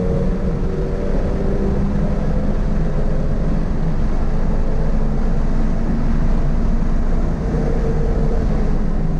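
Toyota GR86's 2.4-litre flat-four boxer engine pulling hard on track, its pitch climbing slowly as it gains revs, under a heavy rush of wind and road noise. There is a brief dip about seven and a half seconds in.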